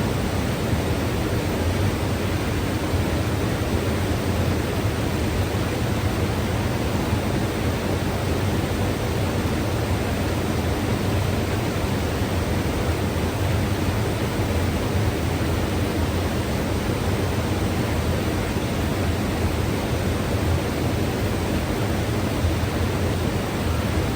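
Mountain river rushing over rocks, a steady unbroken roar of water with no let-up.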